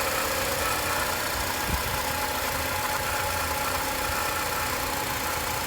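2007 Acura TSX's 2.4-litre four-cylinder engine idling steadily, recorded for the engine rattle it has. One brief knock stands out a little under two seconds in.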